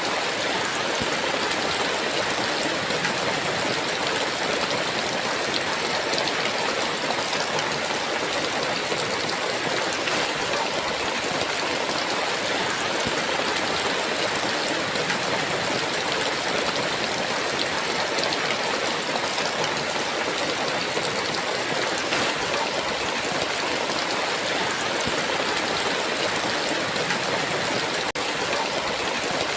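Heavy rain falling steadily, an even downpour that does not let up.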